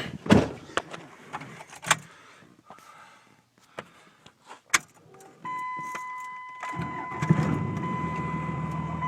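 Clicks and knocks of keys and the truck being entered, then about five and a half seconds in a steady electronic tone comes on with the ignition. About a second later the twin-turbo 5.9-litre Cummins inline-six diesel cranks, catches and settles into a steady idle.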